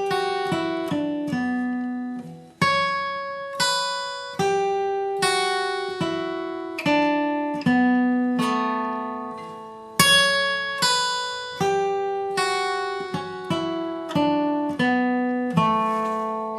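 Flatpicked acoustic guitar playing single-note bluegrass lead lines, alternate-picked, in two like phrases that each run down in pitch, the second starting about ten seconds in; the notes ring on.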